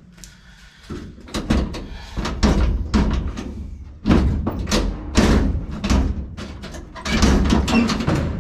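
A run of loud clunks and knocks of hard parts being handled and set down, a dozen or more sharp hits in clusters starting about a second in.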